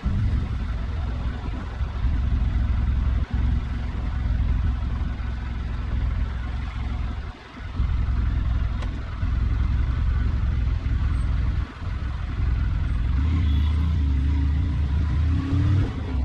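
Motorcycle engine running, a steady low rumble with brief drops in level three times.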